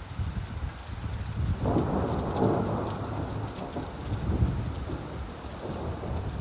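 Steady rain with a low rumble of thunder that swells about a second and a half in and rolls on for several seconds.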